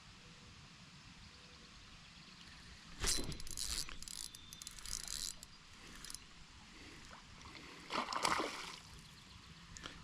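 Water splashing and sloshing beside a kayak in short bursts, starting about three seconds in and again near eight seconds.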